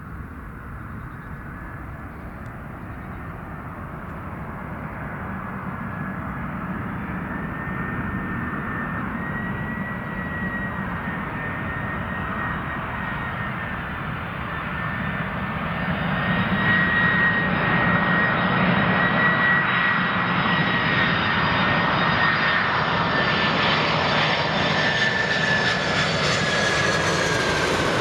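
Boeing 747's four jet engines on approach to land, a rumble and whine growing steadily louder as the jet comes closer. A high whining tone holds steady, then drops in pitch near the end as the jet passes.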